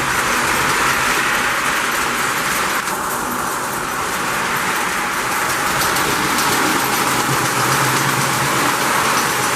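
Lionel postwar #746 J Class model steam locomotive running steadily on three-rail tinplate track: electric motor whir and wheels rumbling on the rails, dipping briefly in the higher sounds about three seconds in.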